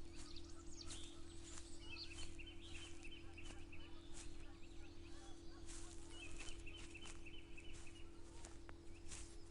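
Footsteps walking through grass or low plants, a soft brushing step roughly every half second or so. A bird twice gives a rapid run of repeated short high notes, about two seconds in and again about six seconds in, over a steady low hum.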